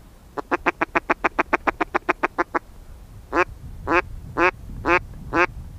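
Loud duck quacking: a fast run of about fifteen short quacks, then five slower, longer quacks about half a second apart.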